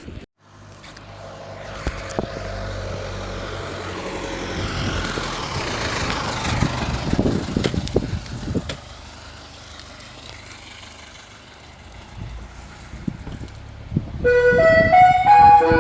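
A vehicle passes by, growing louder and then fading away. Near the end a loud chiming melody of clear notes starts.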